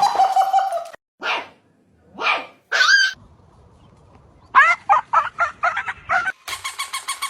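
A dog barking and yelping: a held call, then a few separate barks, then a quick run of about eight short yelps. A rapid, even pulsing sound follows near the end.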